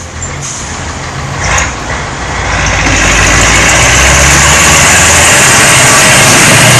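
Heavy diesel machinery running with a steady low engine hum. From about three seconds in it grows much louder, with a harsh, even noise over the hum that holds steady.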